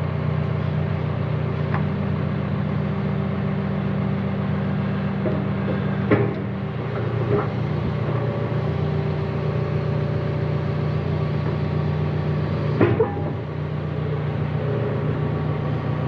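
John Deere 310K backhoe loader's diesel engine running steadily, with a few sharp metallic clunks, the loudest about six seconds in and another near thirteen seconds.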